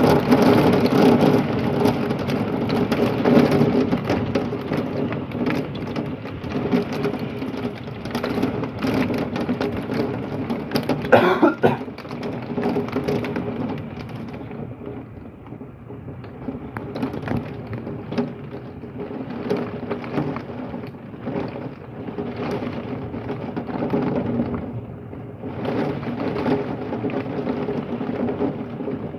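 Heavy thunderstorm rain mixed with small hail pelting a window, heard muffled from indoors as a dense hiss full of sharp taps. It is heaviest through the first dozen seconds, eases about halfway, then picks up again near the end.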